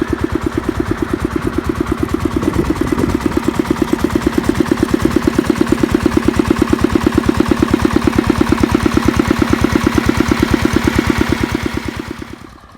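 Kubota mini tractor's small diesel engine running steadily under load, driving a water pump, with an even, rapid beat of firing pulses. The sound dies away near the end.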